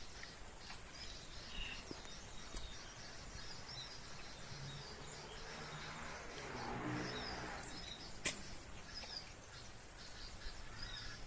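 Outdoor ambience with faint, scattered chirps of small birds. A low hum swells and fades in the middle, and one sharp click comes about eight seconds in.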